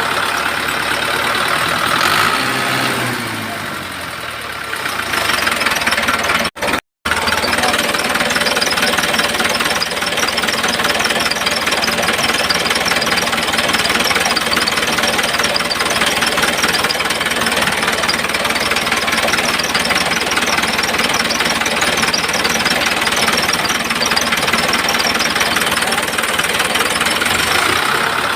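A motor running steadily with a dense rattling sound, cut off briefly about seven seconds in.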